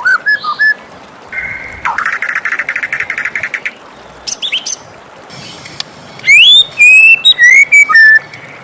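White-rumped shama singing a varied song of short whistled phrases. A rapid trill comes about two seconds in, and loud rising whistles follow in the last few seconds, over a steady background hiss.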